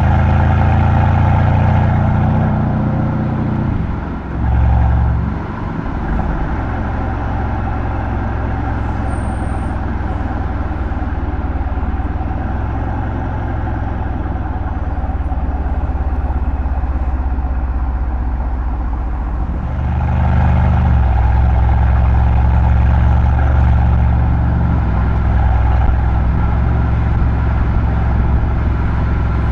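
Mercedes-AMG C63's M177 twin-turbo V8 engine and exhaust running while driving, a steady low engine note that eases about four to six seconds in and grows louder again about twenty seconds in.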